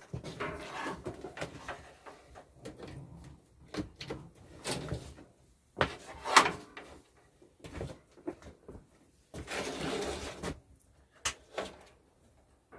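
Handling noises: scattered knocks, clicks and short scrapes of things being moved and set down, with a longer rustling scrape about ten seconds in.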